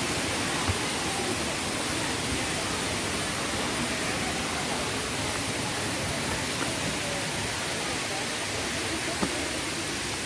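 Waterfall: a steady, unbroken rush of falling water, with a couple of faint clicks.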